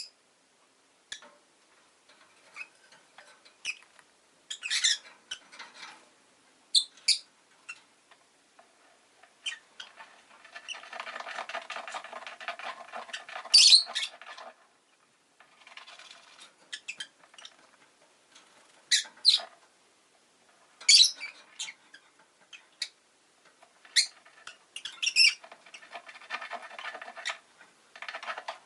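Peach-faced lovebird giving short, sharp, high chirps scattered through, with a stretch of dense scratching and rustling noise in the middle.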